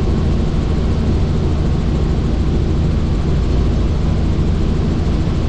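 Helicopter in flight: a steady, loud low drone of engine and rotor with a fast, even pulsing.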